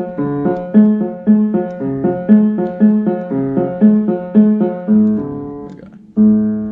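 A piano played in a repeating pattern of struck notes, about two a second. The notes die away about five seconds in, and the playing starts again a second later. The piano is really out of tune.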